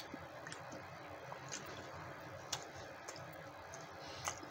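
Faint chewing of a mouthful of cornbread, with a few soft, scattered mouth clicks.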